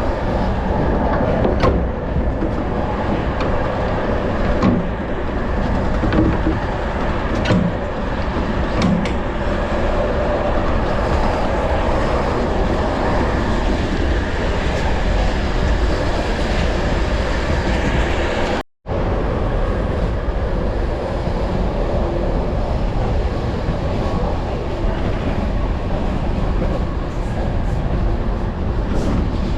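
Steady running noise of a BDZ passenger train in motion, with a few light clicks and knocks. The sound cuts out for a moment about two-thirds of the way in, then resumes unchanged.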